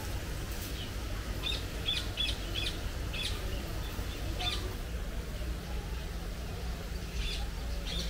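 Birds chirping: short, high, sharp calls, a quick run of them in the first half and a few more near the end, over a steady low background rumble.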